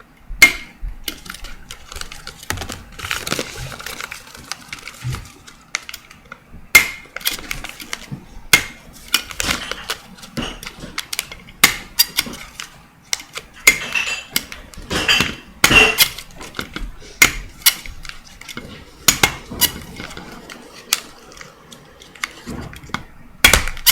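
Stapler driving staples into folded paper: a long run of sharp metallic clacks at irregular intervals, one every second or so.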